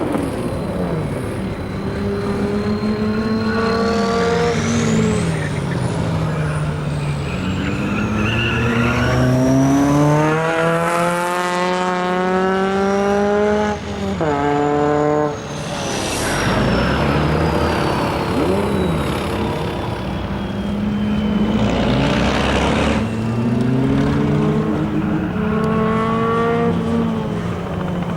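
Competition trial truck's engine revving up and dropping back again and again as it works the course, with a high whine rising and falling above it. There are a few short bursts of noise along the way.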